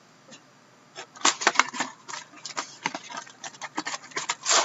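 Trading cards and pack packaging being handled: a quick, irregular run of crisp clicks and crackles starting about a second in.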